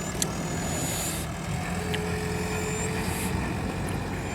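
A JCB 3DX backhoe loader's diesel engine runs steadily, with a sharp click just after the start and another about two seconds in.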